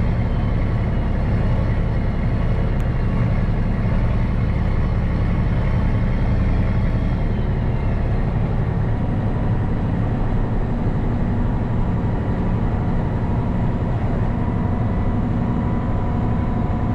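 Case 2670 tractor's turbocharged six-cylinder diesel running steadily under load while pulling a disc chisel.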